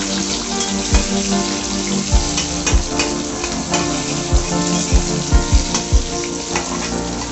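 Sliced onions sizzling and frying in hot oil in a karahi. A metal spatula stirs them, with irregular knocks and scrapes against the pan.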